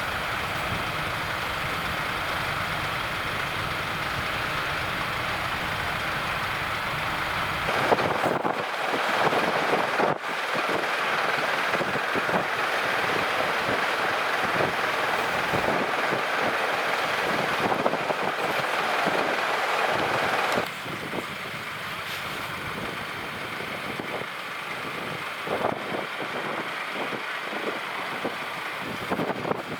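Farm tractors running and driving by on a road, with wind buffeting the microphone. The sound changes abruptly about 8, 10 and 20 seconds in.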